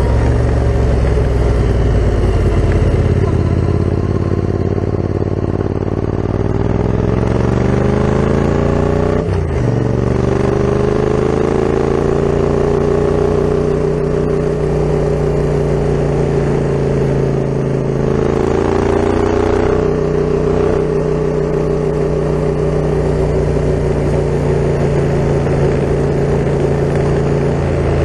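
Yamaha MT-07's 689 cc parallel-twin engine through an Akrapovic full carbon exhaust, ridden on the road. The engine pitch climbs as it accelerates with a short break partway through, holds steady, then dips and rises again.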